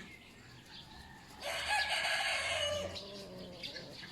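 A fowl gives one loud call about a second and a half long, starting a little before the middle.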